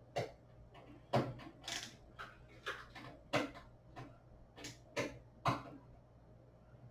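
Irregular clicks and light knocks, about seven in all, from small motherboard screws and a screwdriver being handled against a computer case, over a low steady hum.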